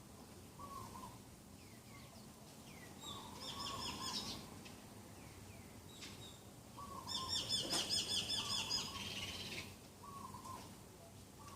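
Several birds calling and singing. A rapid, high chattering song comes in two bouts, about three seconds in and again at about seven seconds, the second louder. Short lower calls repeat between them.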